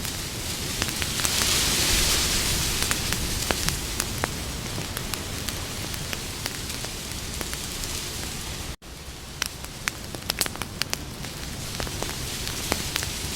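Campfire crackling: scattered sharp pops and snaps over a steady hiss of burning wood. About nine seconds in, the sound cuts out for an instant, then the crackling resumes.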